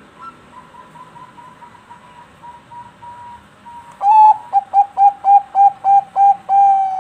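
Zebra dove (Bangkok perkutut) singing: a quick run of soft, even cooing notes, then about four seconds in a much louder series of about nine clipped coos, the last one drawn out.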